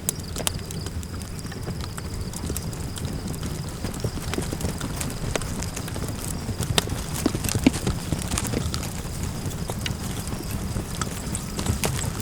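Crackling campfire: irregular sharp snaps and pops over a steady low rumble.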